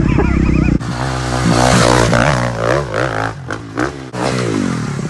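Motocross bike engine revving hard, its pitch rising and falling with the throttle. The sound changes abruptly about a second in, with brief dips and surges later.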